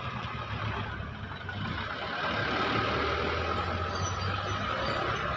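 Truck engine running steadily with road noise, a low hum that grows louder over the first couple of seconds.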